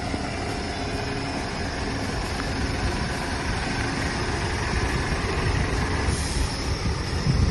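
Scania R 650 tipper truck's V8 diesel engine running, a steady heavy rumble that grows a little louder near the end.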